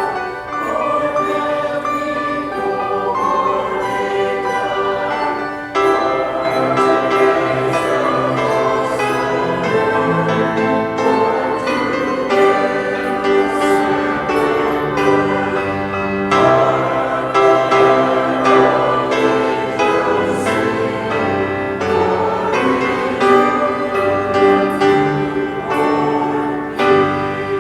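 Choir singing with instrumental accompaniment, a sustained choral piece.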